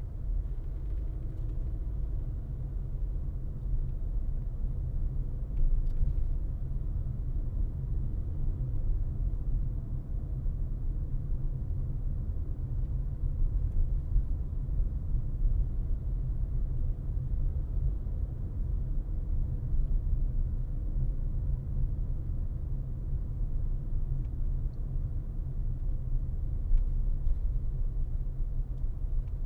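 A car driving along, with a steady low rumble of road and engine noise. Faint ticks are heard now and then.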